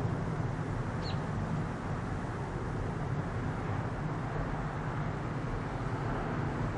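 Steady low rumble of the Airbus A330's jet engines heard from a distance during takeoff and climb-out, with a brief high chirp about a second in.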